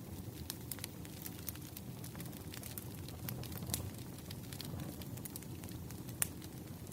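Campfire burning: a steady low rumble of flames with irregular sharp crackles and pops of the burning wood, one louder pop about six seconds in.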